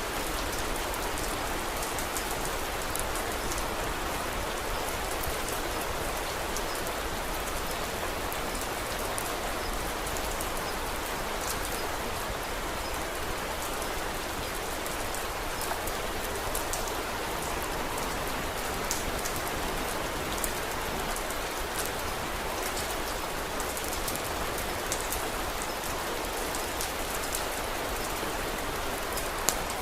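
Steady rain falling, an even hiss with scattered light ticks of drops throughout and one sharper click near the end.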